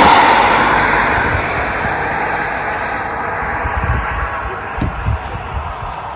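Wind buffeting the microphone: a rushing noise that fades over the first few seconds, then dull low thumps of gusts on the mic about four to five seconds in.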